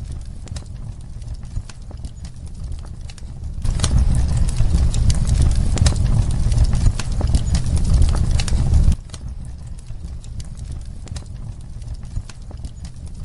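Fireplace fire crackling: irregular sharp pops and clicks over a steady low rumble, growing louder and denser for about five seconds in the middle before dropping back.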